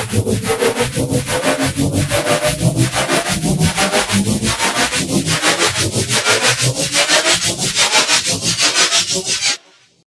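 Sci-fi 'UFO abduction' sound effect: a noisy synthetic hum that pulses a little over once a second, with a fast flutter on top and a faint tone slowly rising underneath. It cuts off suddenly near the end.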